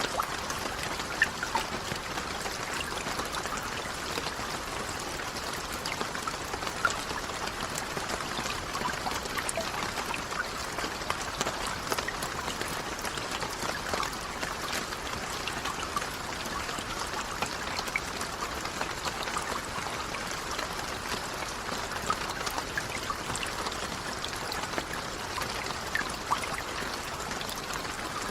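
Steady rain: an even hiss sprinkled with many small, sharp drop ticks and an occasional louder drip.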